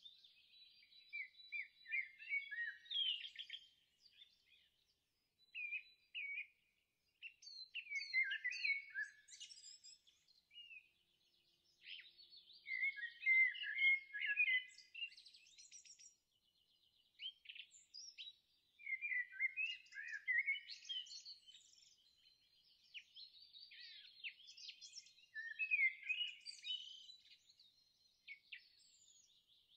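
Songbirds singing: bursts of warbling phrases and quick chirps come every few seconds, with a faint, thin high trill between them.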